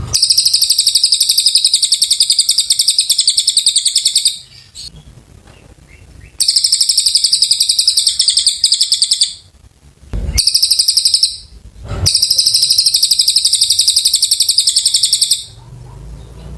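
Cililin songbird singing its long, fast chattering song in four long, high-pitched trills of a few seconds each, with short pauses between them.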